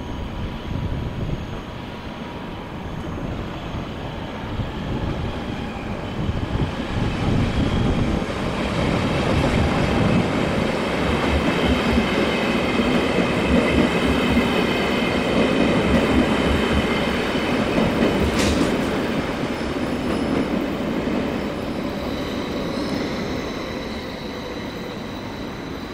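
Electric passenger train moving through the station tracks: a rumble with wheel clatter and several steady high squealing tones, growing louder about a quarter of the way in and easing off near the end, with one sharp click about two-thirds in.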